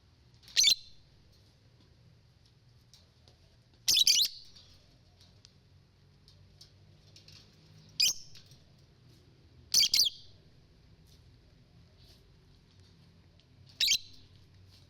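A bird chirping: five loud, short, high chirps spaced roughly three to four seconds apart, with fainter chirps in between.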